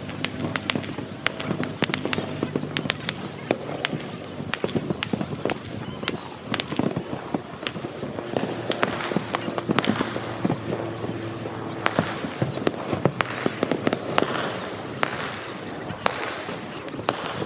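Fireworks going off in a dense, irregular string of sharp bangs and cracks, several a second.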